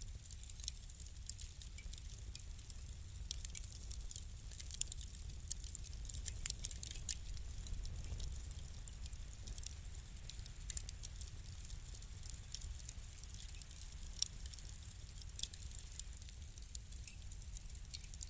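Wood fire burning in a fireplace, crackling steadily with a low rumble of the flames and frequent small pops, thicker around the middle and one sharper pop a little past halfway.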